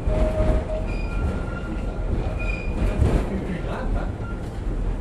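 Tramway du Mont Blanc rack-railway train running on metre-gauge track, heard from inside the front of the train: a steady low rumble of wheels and running gear, with several brief high-pitched wheel squeals as it takes a curve.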